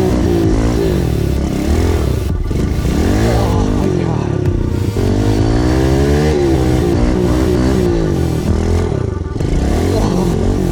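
Kawasaki KLX110 pit bike's small four-stroke single-cylinder engine revving up and down repeatedly as it is ridden.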